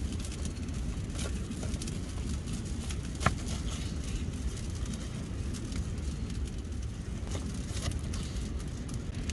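Wood campfire crackling, with scattered sharp pops over a low steady rumble; one loud pop about three seconds in.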